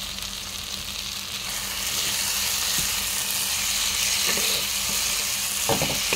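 Fried potato pieces and masala sizzling in oil in a pan while being stirred with a spatula, the spices cooked down until they release their oil. A steady sizzle that grows a little louder about two seconds in, with a few spatula scrapes near the end.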